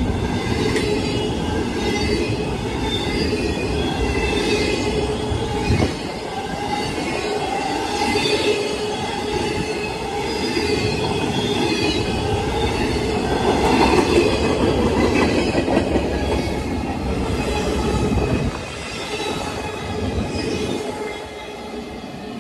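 CSX intermodal freight train's cars rolling past, with high-pitched wheel squeal over the rumble of the wheels. The sound drops about eighteen seconds in and fades as the end of the train moves away.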